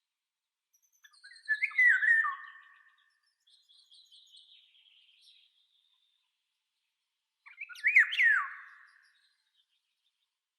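A songbird calling: two short warbled phrases with swooping pitch, about six seconds apart, and a fainter, higher call in between.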